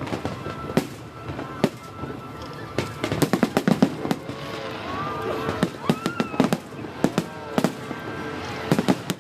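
Aerial fireworks display: sharp bangs of shells bursting, a rapid flurry of cracks about three seconds in, and whistling tones that rise and fall around the middle.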